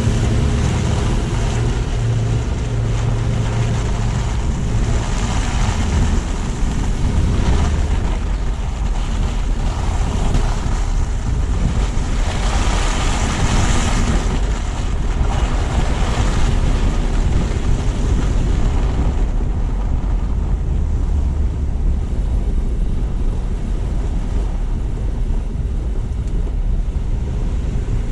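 Car driving along, heard from a low-mounted GoPro: a steady rush of tyre and road noise with wind buffeting the microphone and a deep rumble underneath. The hiss swells louder for a few seconds around the middle, then settles lower.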